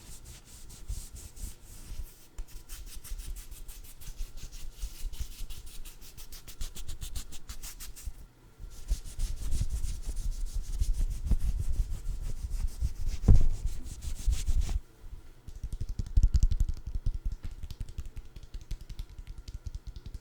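Close-up rubbing and scratching on a food item in rapid fine strokes. It breaks off briefly about 8 s in and comes back louder with soft low thuds, pauses again near 15 s, then carries on.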